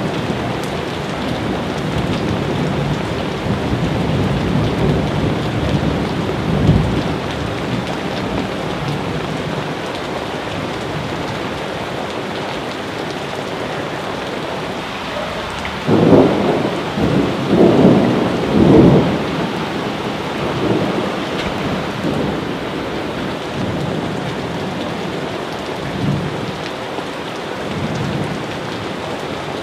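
Steady heavy rain with thunder rumbling through it. A cluster of three or four loud thunder rolls comes just past halfway, with weaker rumbles before and after.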